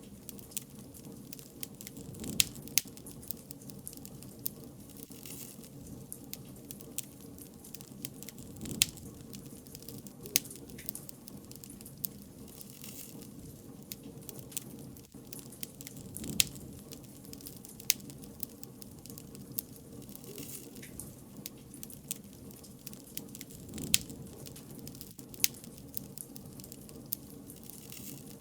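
Wood fire burning: a steady low rush with frequent sharp crackles and pops, a handful of them loud snaps.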